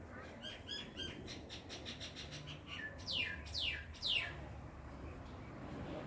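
A bird singing: a quick run of rapid repeated chirps, then three loud whistled notes that each slide down in pitch.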